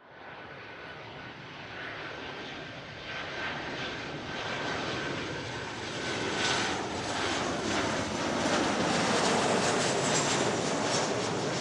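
Boeing 737-800 airliner's CFM56-7B turbofan engines, a steady rushing roar growing louder as the jet approaches. A thin steady whine rides on it for the first six seconds or so, after which the roar turns rougher.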